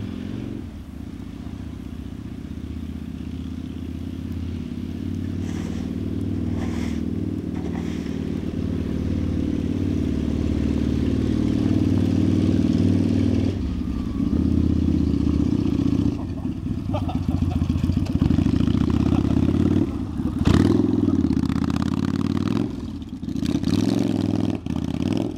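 Chopper motorcycle's engine running under way, building in loudness over the first half and easing off briefly several times in the second half, with a few clattering knocks.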